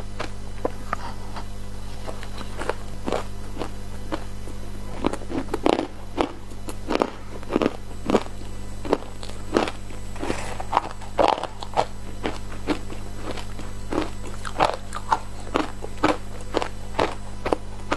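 Ice being bitten and chewed: a steady series of sharp crunches, about two a second, with a denser run of crunching a little past halfway.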